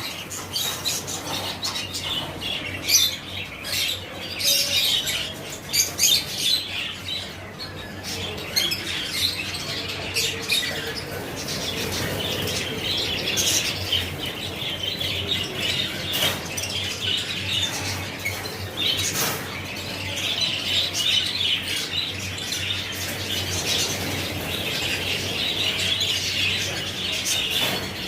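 A roomful of caged lovebirds chattering and squawking continuously, many short sharp calls overlapping.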